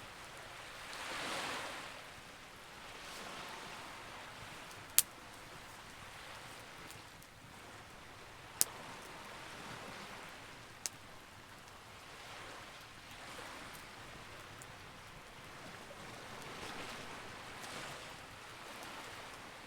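Campfire crackling, with two sharp pops about five and nine seconds in and a smaller one about two seconds later, over a soft rushing of sea waves that swells and fades every few seconds.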